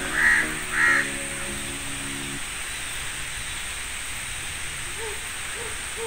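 A bird calls twice in quick succession near the start, over background music of held low notes that stops about two and a half seconds in. After that there is a steady hiss.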